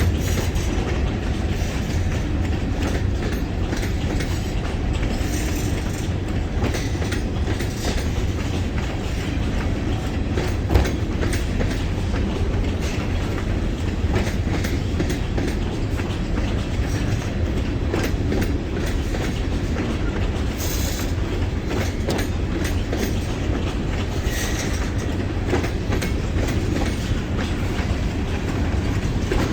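A long freight train's cars rolling past steadily, a continuous rumble with the clickety-clack of steel wheels over the rail joints. A single sharper knock comes about eleven seconds in.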